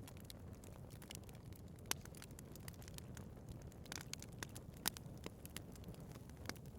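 Wood fire burning in a fireplace: a low, steady rumble of flames with irregular sharp crackles and pops. The loudest pops come about two seconds in and again near five seconds.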